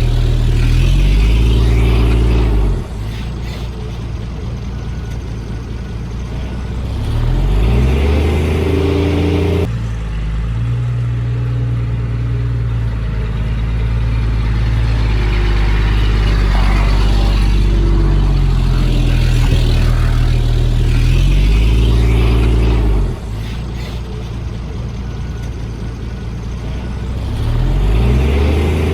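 Heavy diesel engine of earth-moving equipment running hard, twice dropping to a lower speed for a few seconds and then revving back up. This is typical of a machine easing off and then taking up the load again.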